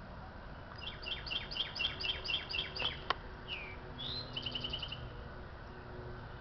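Songbirds singing: a quick series of about nine downslurred whistled notes, about four a second, then a single slurred note and a short fast trill, over a steady low background hiss.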